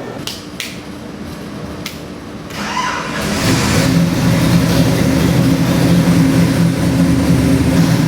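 A few sharp clicks, then about three seconds in a 454 cubic-inch big-block Chevy V8 starts and settles into steady running.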